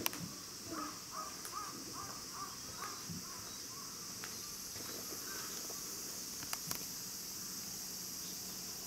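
A bird calls in a quick run of about eight short notes in the first few seconds, over a steady high drone of insects. A few sharp clicks stand out, one at the start and two about two-thirds of the way through.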